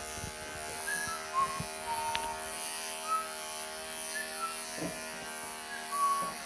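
Wahl electric pet clippers running with a steady buzz while clipping a kitten's matted coat. A few short high tones come and go over it, and there are a couple of soft knocks near the end.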